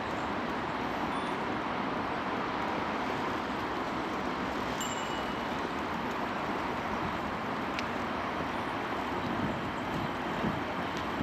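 Steady hum of distant city traffic, an even rushing noise with no let-up, with a couple of faint short high tones about five seconds in.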